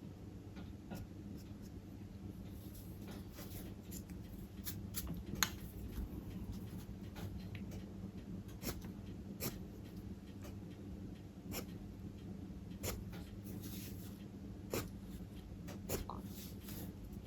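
Charcoal working on drawing paper: irregular short scratchy strokes and light ticks and taps, over a steady low hum.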